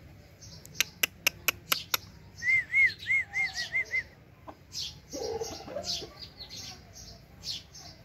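Small birds chirping, with a quick run of about six sharp clicks near the start. A string of seven clear, quickly repeated notes follows, the loudest part, about two and a half seconds in.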